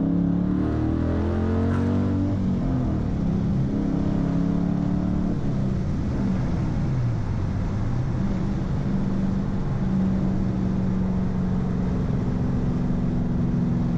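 Straight-piped Dodge Challenger R/T's 5.7-litre Hemi V8 heard from the cabin, pulling hard with its pitch rising twice and dropping between, as at a manual upshift. About six seconds in it eases off and settles to a steady cruise.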